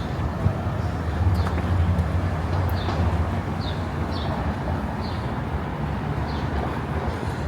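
Street ambience with a low traffic rumble that swells about a second in as a vehicle passes, while a short, high, falling chirp repeats about every three-quarters of a second.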